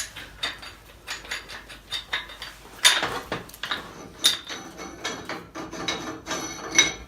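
Wrench and metal fittings clinking, scraping and rattling as a steam zone valve part is unscrewed, with irregular sharp clicks and a few louder clanks about three seconds in, a second later, and near the end.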